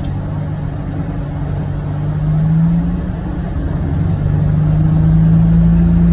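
John Deere Gator XUV835M utility vehicle's three-cylinder gasoline engine running steadily as it drives, with a low drone that swells about two seconds in and again from about four seconds on.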